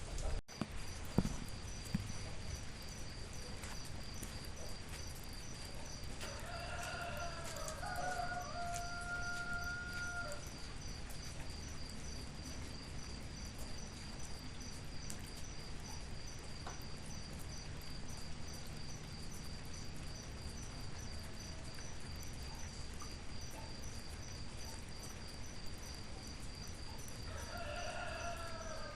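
Steady rain with a rooster crowing, once about a quarter of the way in (a long held call of about four seconds) and again starting near the end. A high steady pulsing trill, like insects, runs underneath.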